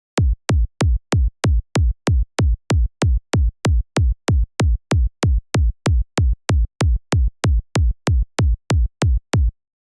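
Synthesized electronic kick drum from the Kick 2 plugin, playing a steady loop of identical hits, about three a second. Each hit is a short click with a deep thump that drops in pitch, and the loop stops shortly before the end.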